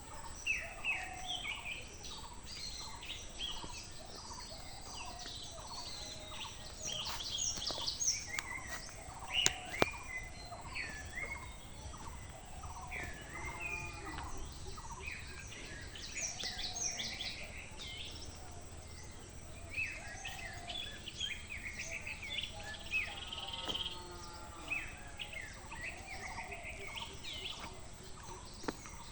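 Many birds calling and chirping over one another, in quick, overlapping short calls. Twice, lower, drawn-out calls rise out of the chorus, and a single sharp click comes about a third of the way in.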